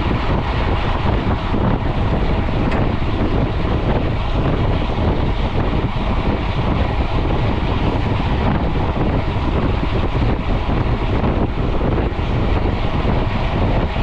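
Steady rush of wind over an action camera's microphone on a mountain bike riding at speed on a paved road.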